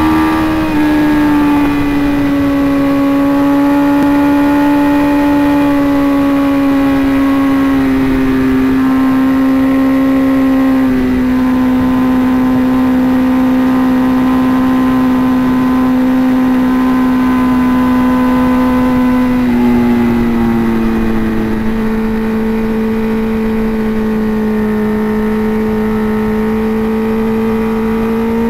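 Sport motorcycle engine running hard at high speed on a race track, recorded from a helmet camera. The engine note holds a steady pitch, stepping down slightly three times, over a steady rush of noise.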